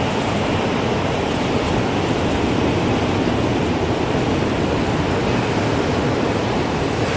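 Wind blowing steadily: a loud, even rushing noise with no break.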